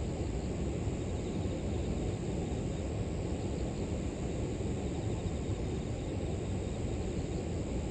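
River water flowing steadily, a low, even rushing, with a faint high chirring of grass insects above it.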